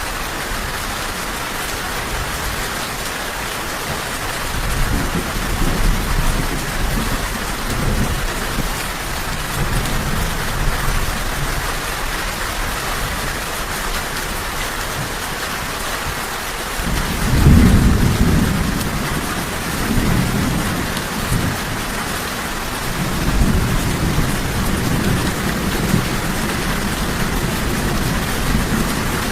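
Steady heavy rain with rolling thunder: low rumbles swell in about four seconds in, a louder peal breaks about seventeen seconds in, and further rumbling follows near the end.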